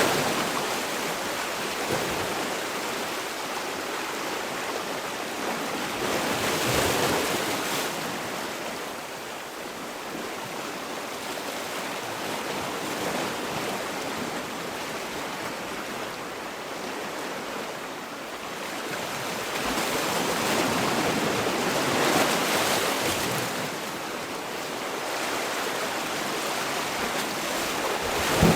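Sea waves washing in: a continuous rush of surf that swells louder about seven seconds in, again around twenty-two seconds, and once more at the end.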